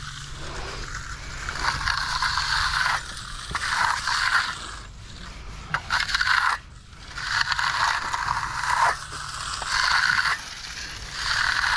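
Finishing tool scraped in repeated strokes across a shed slab's concrete surface that has already gone hard, about one stroke every second or two.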